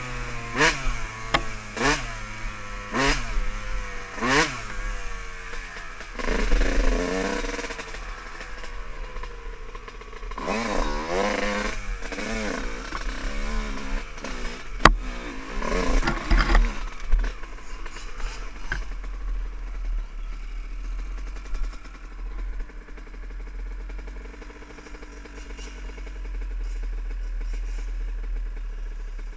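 Dirt bike engines revving in repeated quick rises and falls, with a few sharp clicks. After about eighteen seconds they settle into a quieter, steadier drone, with low rumble under it all.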